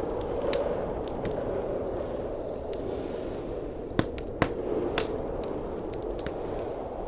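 Wood fire crackling in a fireplace, with scattered sharp pops, the loudest pair about four seconds in, over a steady low roar of blizzard wind.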